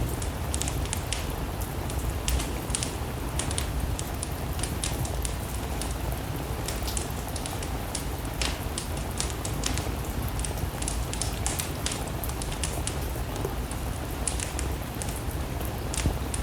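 Steady rain with a wood fire crackling, with frequent sharp pops and snaps over an even rushing hiss and a low rumble.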